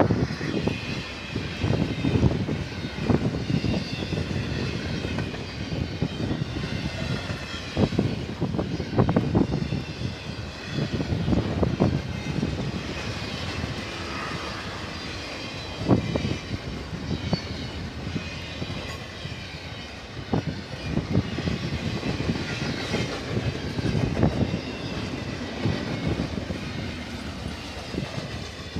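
Freight train rolling past, a steady rumble broken by irregular clunks and bangs from the cars, trailing off near the end.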